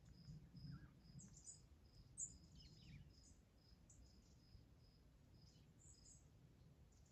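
Faint outdoor ambience: an insect chirping steadily in short high pulses, about two a second, with scattered brief high bird chirps over it. A faint low rumble sits under the first three seconds.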